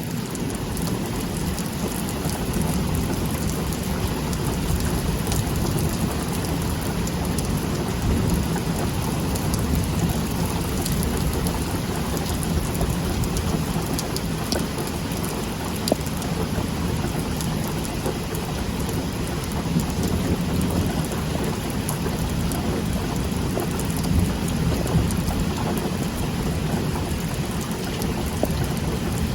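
Heavy rain pouring steadily during a thunderstorm, with a low rumble underneath and scattered sharp ticks of drops striking a nearby surface.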